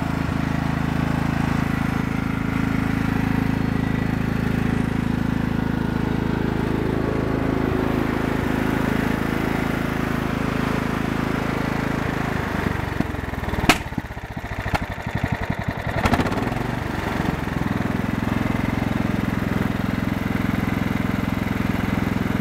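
Husqvarna LTH140 lawn tractor engine running steadily, freshly jump-started; the owner suspects a float needle stuck partly open. About halfway through, the sound goes unsteady for a few seconds with several sharp clicks, then settles back to the steady run.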